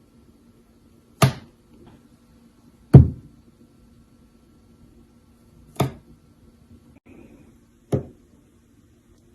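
Four sharp knocks on a hard surface, spaced two to three seconds apart, over a faint steady hum.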